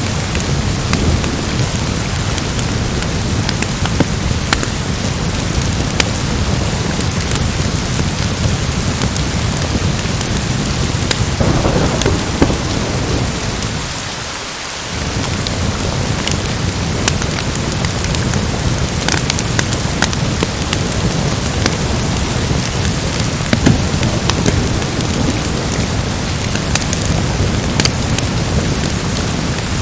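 Steady heavy rain with a continuous low thunder rumble, and scattered sharp crackles throughout. The rumble briefly drops away about halfway through, then returns.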